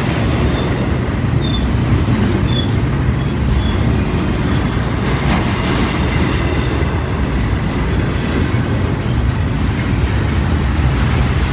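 Double-stack intermodal freight train's container cars rolling past close by: a steady loud rumble of steel wheels on rail, with occasional clicks from the wheels.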